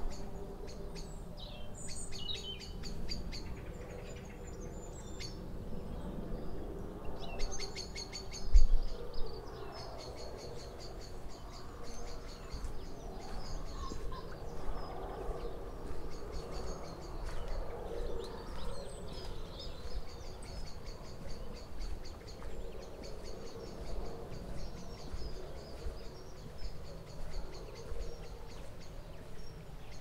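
Birds singing in rapid, high-pitched chirping trills, a few at first and then almost without a break. Under them runs a low steady rumble, and a single sharp thump about eight and a half seconds in is the loudest sound.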